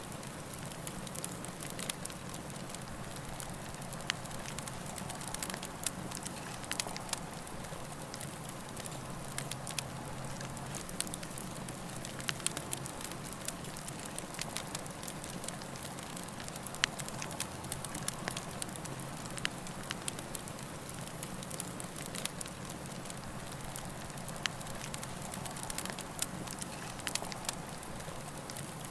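Campfire burning steadily, the wood crackling and popping in scattered sharp snaps over a soft constant rush of flame.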